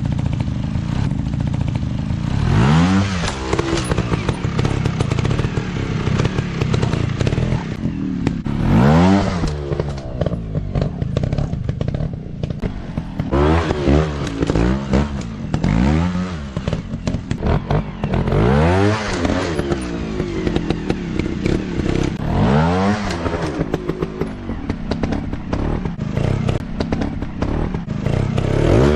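Dirt bike engines running and revving in repeated bursts, the pitch climbing and dropping again every few seconds.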